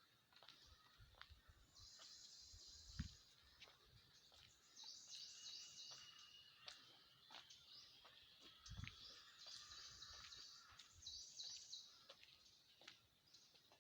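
Faint birds chirping in repeated high bursts, with a few soft clicks and two low thumps.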